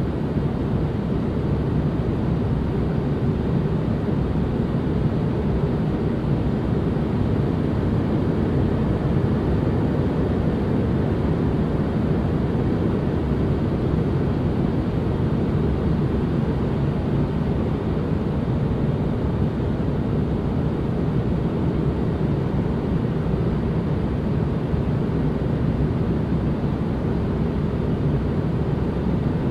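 Steady, unchanging ambient noise, a deep even rumble-like hush with most of its weight in the low end and little hiss on top.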